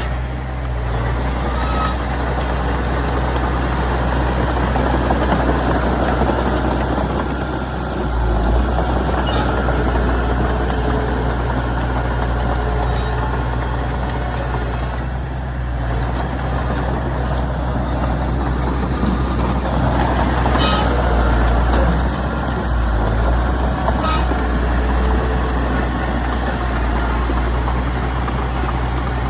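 Komatsu D31PX bulldozer's diesel engine running steadily, swelling and easing a little, with a few sharp metallic clanks.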